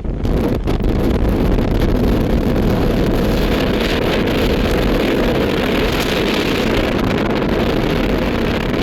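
Jet airliner's engine noise, a steady rushing roar that peaks about four to six seconds in, with wind buffeting the microphone.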